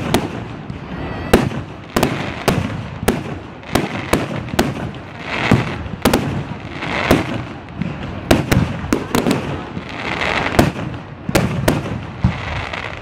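Fireworks display: many sharp bangs in quick, irregular succession, with spells of crackling hiss between them.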